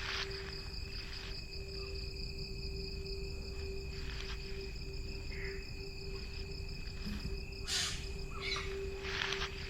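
Jungle ambience: a steady insect chorus of several unbroken buzzing tones over a low rumble, with short rustling sounds now and then, the loudest near the end.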